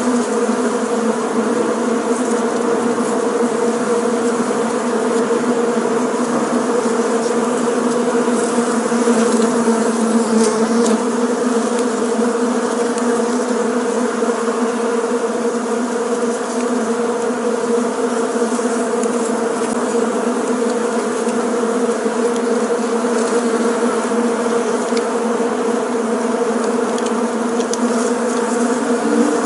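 Many bees buzzing together in a dense, steady drone, with no pause or change.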